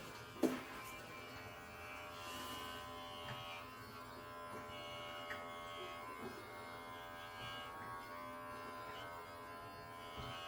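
Electric pet hair clippers buzzing steadily as they run over a cat's coat, with one sharp click about half a second in.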